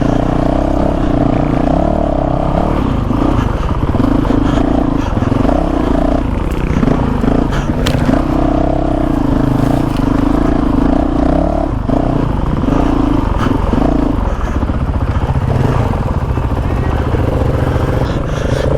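Honda CRF450RL's single-cylinder four-stroke engine running on a dirt trail, the throttle opened and closed in stretches of a second or two so the engine note keeps rising and dropping away. A few sharp knocks come through around the middle.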